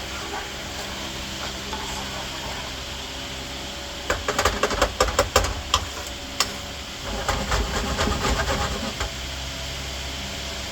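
Tomato sauce heating in a frying pan with a light hiss over a steady mechanical hum. About four seconds in, a utensil clatters and scrapes against the pan for a couple of seconds as the sauce is stirred, with more stirring noise a little later.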